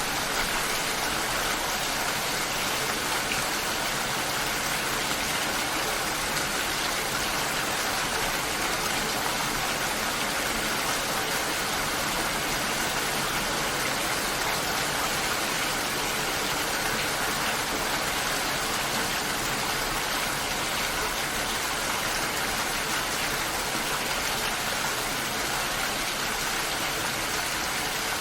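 Steady heavy rainfall, an even hiss of rain with faint patter of individual drops and no change in intensity.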